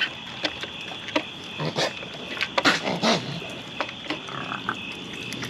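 Raccoons growling and squealing in a few short, rough bursts, with scattered light clicks and knocks. A steady high chirring runs underneath.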